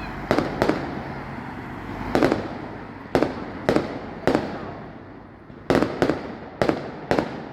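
Fireworks display: about ten sharp bangs of fireworks bursting, irregularly spaced and some in quick pairs, over a continuous rumble of echo and crackle.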